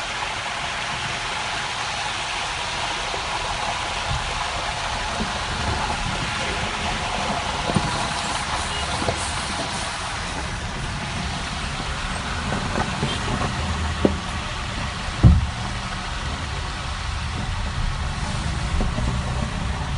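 Steady, heavy rainfall hissing, with a few short low thumps, the loudest about 15 seconds in.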